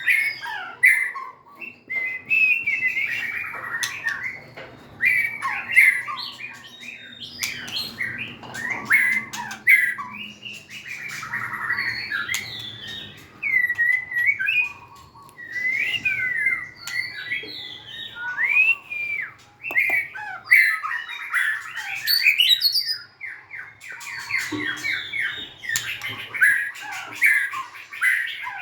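White-rumped shama singing a long, varied song of whistled, gliding phrases and rapid warbles, one phrase after another with short pauses, mixed with scattered sharp clicks.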